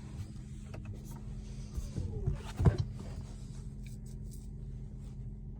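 Truck engine idling steadily, heard from inside the cab, with a few small knocks and one sharp thump about two and a half seconds in.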